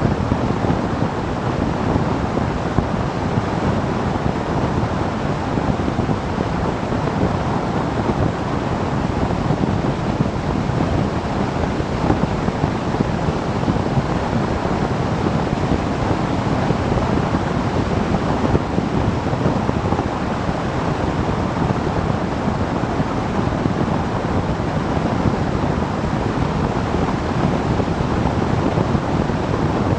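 Steady wind rush on the microphone of a motorcycle at road speed, with road and engine noise blended in underneath. It stays even throughout, with no gear changes or revving standing out.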